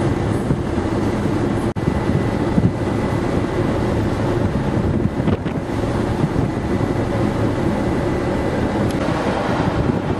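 Strong wind buffeting the microphone, a steady low rumble over the noise of a ferry under way and the sea.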